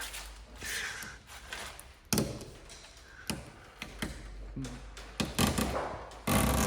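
Irregular taps and knocks from hands and tools at work, with soft scuffing between them and a louder rustling stretch near the end.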